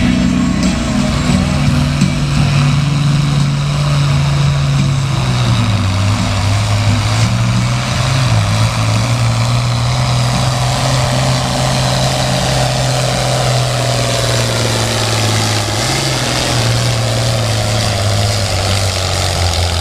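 International Harvester 966 Farmall pulling tractor's engine running hard at full throttle under load while dragging a pulling sled on a full pull. The engine drone holds steady, dipping slightly in pitch about six seconds in.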